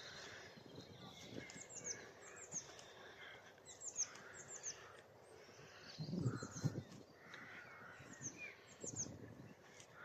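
Common nightingale singing: strings of repeated high notes that fall in pitch, mixed with lower warbled phrases. A brief lower sound comes about six seconds in.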